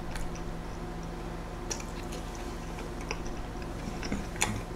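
A person chewing a large burger close to the microphone: soft, wet mouth clicks and smacks now and then, over a steady low hum.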